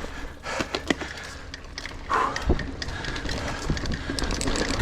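Niner Air 9 RDO 29er mountain bike rolling over rough dirt singletrack: a steady tyre rumble with many scattered clicks and knocks from the bike rattling over roots and rocks.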